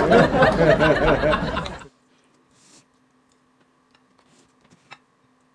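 A person's voice for about the first two seconds, then it stops; after that only a faint steady hum and a few light clicks of chopsticks on dishes.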